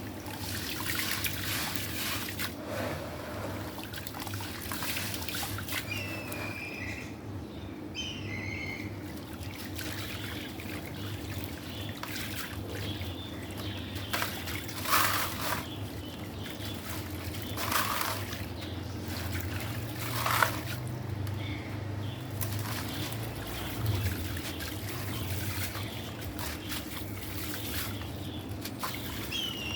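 Black stone crumbling in water: a steady wet crackle and trickle of tiny breaks, with a few sharper crunches about 15, 18 and 20 seconds in.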